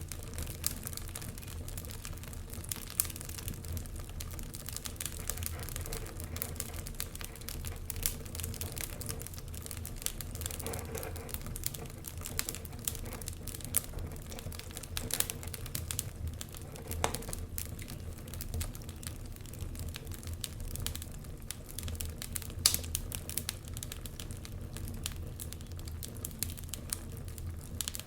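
Wood fire burning in a fireplace, crackling with irregular sharp pops over a steady low rumble of the flames; one louder pop about two-thirds of the way through.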